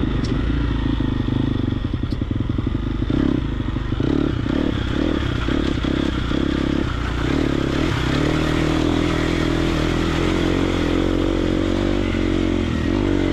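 Triumph TF250X dirt bike's 249cc single-cylinder four-stroke engine running as it is ridden, the throttle blipped on and off in short bursts through the middle, then opened so the pitch climbs at about eight seconds and holds steady.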